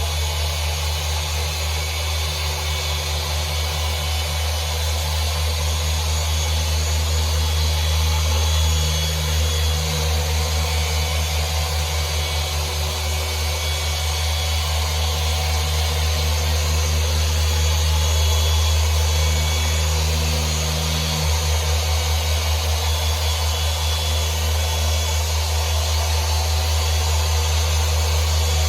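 Electric machine polisher running steadily while polishing windshield glass, a continuous low hum under a hiss of the pad on the glass. Its hum shifts slightly about two-thirds of the way through.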